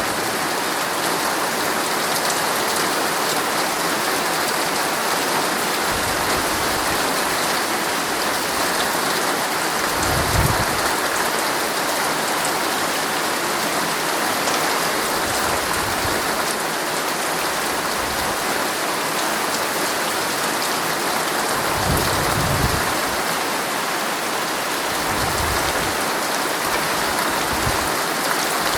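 Heavy rain drumming steadily on a tent, a dense even hiss, with a few short low rumbles that come and go, the strongest about ten and about twenty-two seconds in.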